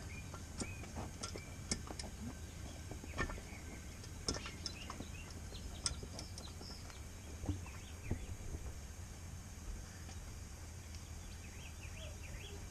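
Scattered light clicks and taps of the four-wheeler's oil dipstick cap being threaded back in by hand, with birds chirping in the background near the start and near the end.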